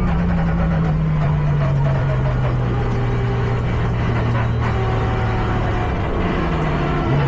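Race truck's engine heard from on board, its pitch falling slowly and steadily as the truck slows, then a quick rise in revs near the end.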